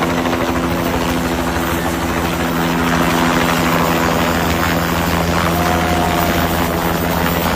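Helicopter running close by, a steady pulsing rotor beat with a steady engine tone under it.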